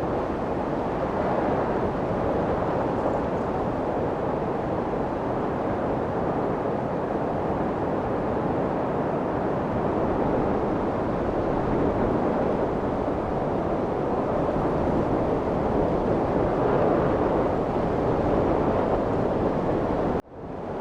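Steady rushing of wind, an even noise with no distinct events, dropping out suddenly for a moment near the end and fading back in.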